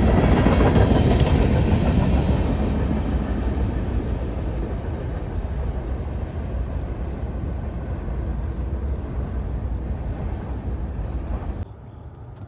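A passing train's rumble, loudest at first and then fading steadily as it moves away, before cutting off abruptly near the end.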